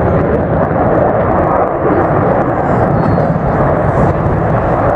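Aircraft flying a display, its engine noise a loud, steady, deep roar without a clear pitch and no breaks.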